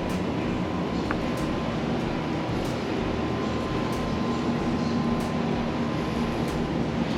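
Large-format vinyl printer running: a steady mechanical hum with faint, regular ticks about every second and a quarter, as the print head carriage sweeps back and forth.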